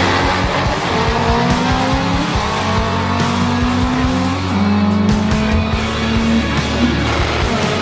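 Car engine revving, its pitch climbing slowly, over background music.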